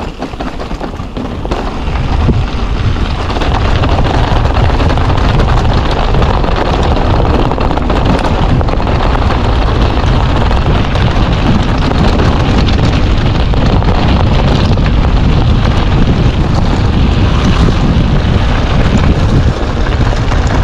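Wind buffeting the microphone of a mountain bike moving at speed downhill: a loud, steady rumble that builds over the first few seconds.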